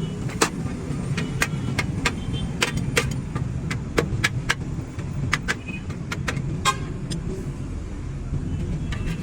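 A steady low engine rumble runs throughout. Over it come irregular sharp metallic clinks and taps, one to three a second, typical of hand tools on metal during heavy-truck tyre work.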